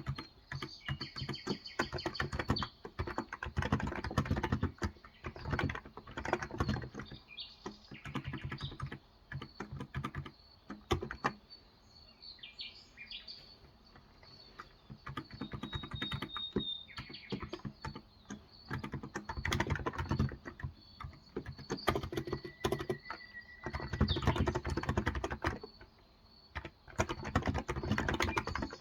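Typing on a Cox Endeavour tenkeyless electrostatic-capacitive keyboard with 35 g switches: runs of rapid keystrokes broken by short pauses. Birds chirp in the background, heard most clearly in the lull about 12 seconds in.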